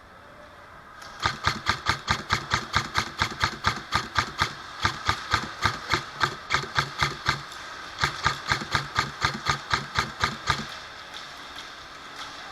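Airsoft gun firing a long string of shots, about four a second, each with a short mechanical whir-and-clack. There are two runs, broken briefly about seven and a half seconds in.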